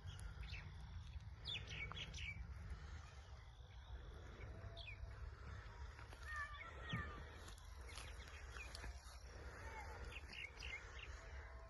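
Faint, scattered short bird chirps and tweets, some with quick up-and-down glides, over a steady low background rumble.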